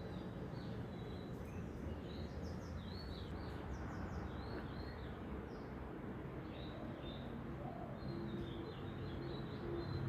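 Small birds chirping, many short repeated chirps, over a steady background hiss.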